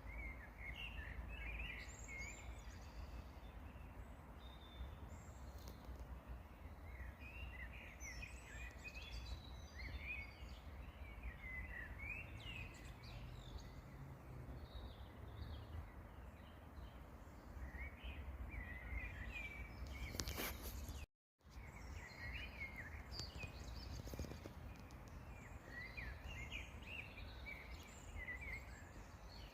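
Songbirds singing and chirping in short phrases over a steady low rumble of outdoor background noise. All sound cuts out for a split second about two-thirds of the way through.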